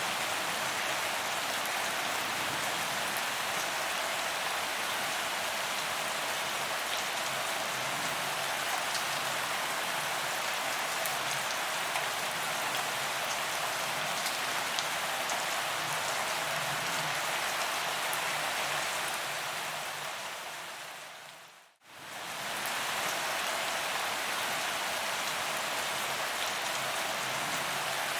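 Steady rain falling on a paved promenade, an even hiss of drops hitting the ground. About twenty seconds in, it fades down to almost nothing and swells back within a couple of seconds.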